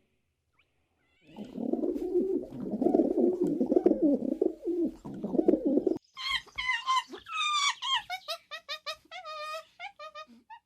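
Birds calling: a low, wavering cooing for about five seconds, then a quick run of high chirping notes that step down in pitch.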